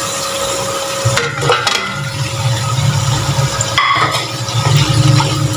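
Spiced onion-ginger-garlic masala sizzling in a steel pot as a wooden spatula stirs it and lamb trotters are worked into it for frying (bhunai), with a couple of sharp knocks against the pot.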